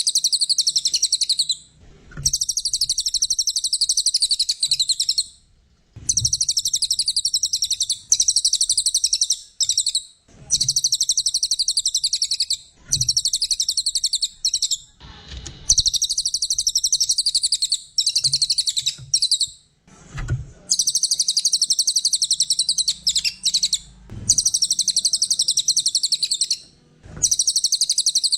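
Brown cililin (burung cililin coklat) songbird singing: rapid, high, trilling chirps in phrases of a few seconds each, repeated with short pauses between them.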